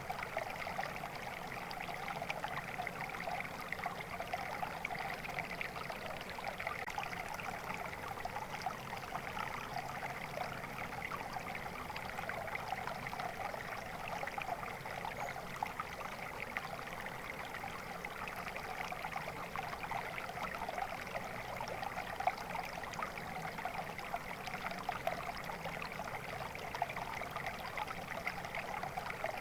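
Water flowing steadily over stones in a small stream, a constant babbling trickle with no pauses or changes.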